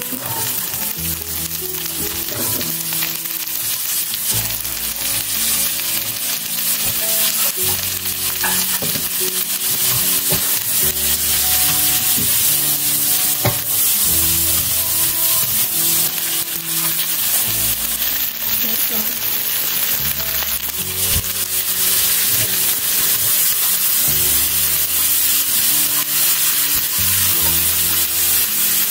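Thai basil chicken stir-fry sizzling steadily in a hot pan, stirred now and then, with music playing underneath.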